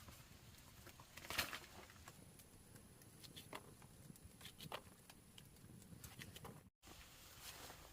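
Near silence with a few faint, scattered taps and clicks, and one louder brief rustle about a second and a half in.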